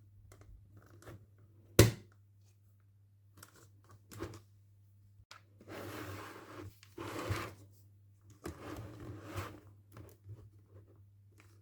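Toy packaging being handled during unboxing: one sharp click a couple of seconds in, then three bursts of rustling or tearing, each lasting up to about a second.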